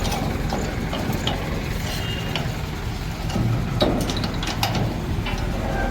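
Hydra crane at work unloading a thresher: a steady diesel engine rumble with scattered metallic clicks and clanks of the lifting gear.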